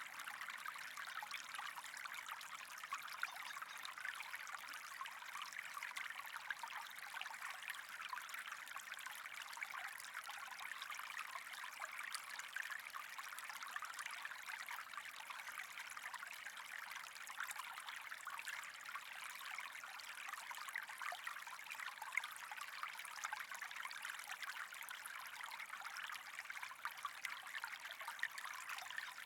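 Steady trickling, flowing water, with a fine, continuous splashing crackle and no change throughout.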